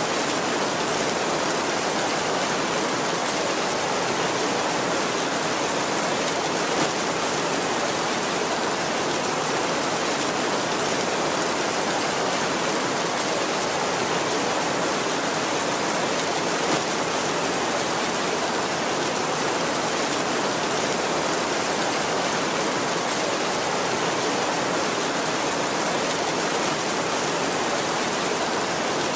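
Heavy rain falling steadily on a tin roof, a dense even hiss with no thunder rumble.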